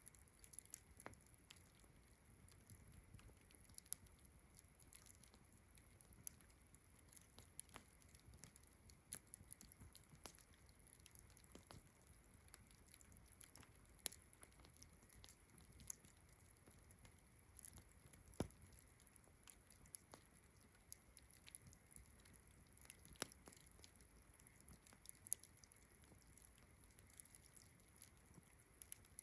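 A campfire crackling quietly, with irregular sharp pops, over a steady high drone of distant crickets and frogs.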